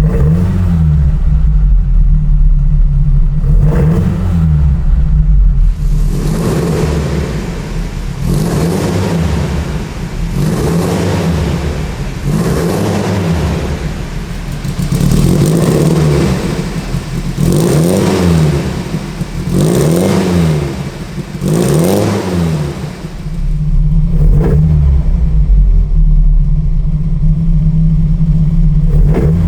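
Lancia Fulvia 1300 Rallye's narrow-angle V4 engine idling, then revved in a string of quick throttle blips about every two seconds, each rising and falling straight back. It settles to a steady idle near the end.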